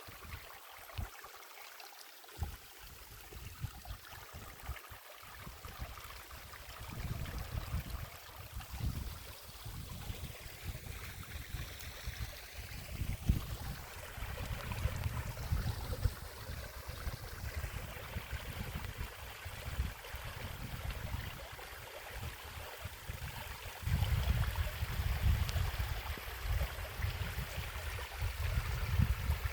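Running water like a stream, with an irregular low rumble that comes and goes and grows louder about three quarters of the way through.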